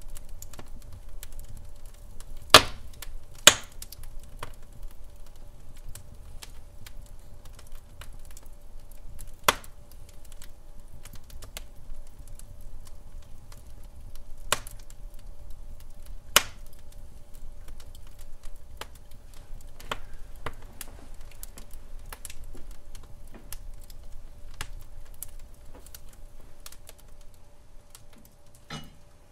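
Wood fire crackling in a fireplace: irregular small crackles with a few louder snaps, over a low steady rumble.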